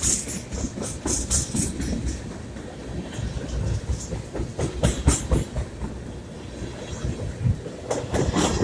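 Diesel freight train rolling past, its car wheels clicking over rail joints in uneven clusters over a steady low rumble.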